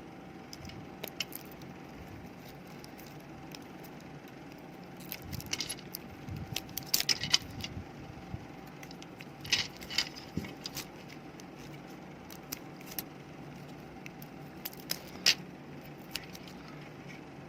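Scattered sharp clicks and light clatter of small hard parts of a laptop battery pack being handled, thickest around six to seven seconds in, again around ten seconds and once near fifteen seconds. A faint steady hum runs underneath.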